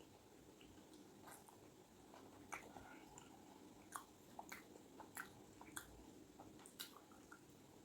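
A person chewing and biting food, with about a dozen faint, irregular wet mouth clicks and smacks.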